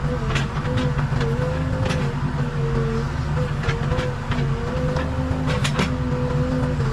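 Case 580 Super K backhoe loader's diesel engine running steadily under work, with a whine that dips and recovers every second or so. Short sharp clicks and knocks come at irregular moments throughout.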